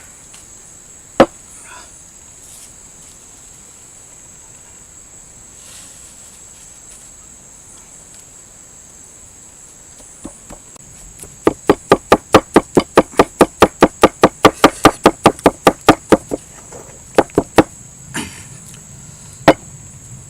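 A blade chopping on a cutting board: a single chop, then after a pause a fast run of about twenty strokes at four to five a second, followed by a few single chops. A steady high-pitched whine runs underneath throughout.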